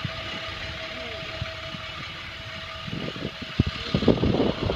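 Diesel engine idling steadily. Over the last couple of seconds, irregular louder low bursts break in.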